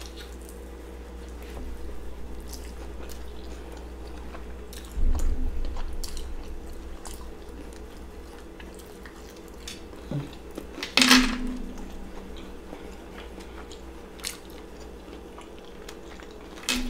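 Close-up chewing and biting of deep-fried battered seafood, with small crunches and clicks over a steady low room hum. A low thump comes about five seconds in, and a louder sharp sound about eleven seconds in.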